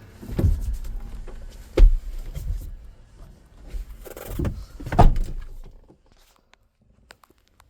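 A run of thumps and knocks, two of them sharp and loud, about two and five seconds in, over a low steady hum that stops about six seconds in.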